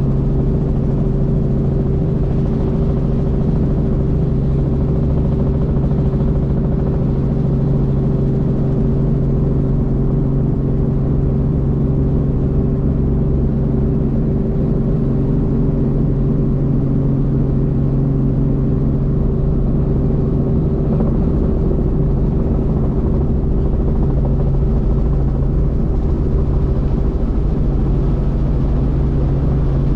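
Helicopter in flight: a steady engine and rotor drone with a constant low hum.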